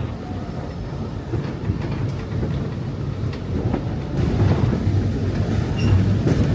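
Passenger train car rolling along the rails: a steady low rumble with scattered clicks and knocks from the wheels and car, getting louder about four seconds in.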